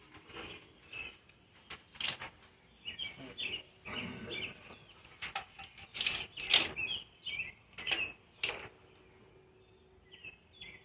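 Old electrical tape and harness wrap being cut and peeled off a vehicle wiring harness: a run of short, sharp tearing and crackling sounds, loudest around the middle.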